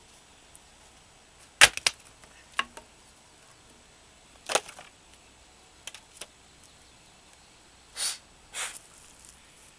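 Axe blows on a short length of dried, knotted oak firewood: sharp wooden knocks a second or two apart, the loudest about one and a half seconds in with two quick smaller knocks after it, and two softer, longer knocks near the end. The knot makes the piece hard to split.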